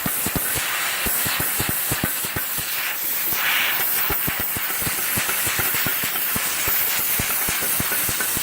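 CUT50 plasma cutter running on metal: a steady hiss of air with irregular crackling and popping from the arc. The owner takes it for a faulty unit that arcs and melts the metal and its consumables rather than cutting cleanly.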